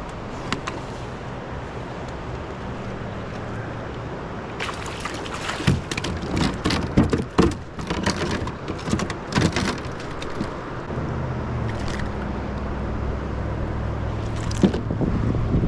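Rushing river water with wind on the microphone, broken in the middle by several seconds of sharp, irregular splashes and slaps of water.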